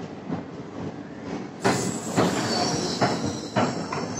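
Sleeper-class passenger coaches of an Indian Railways train rolling past along the platform, their wheels clattering with a run of knocks over the rail joints. The sound gets louder about one and a half seconds in, and a thin high wheel squeal joins about halfway through.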